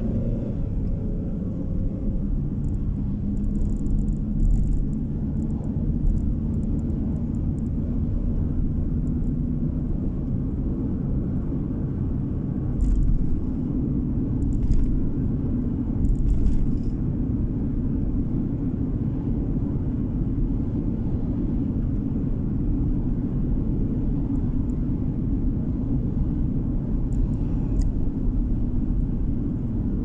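Steady low road and engine rumble of a car driving, heard from inside the cabin, with a few light knocks and ticks scattered through it.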